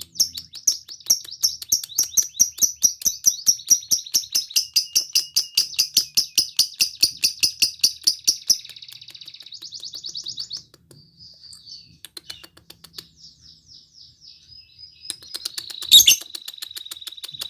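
Lovebird singing a gacor 'ngekek' chatter: a long run of rapid, shrill, evenly repeated chirps that speeds into a buzzy trill, then softer scattered calls. A single sharp click comes a little before the end, and the rapid chirping starts again.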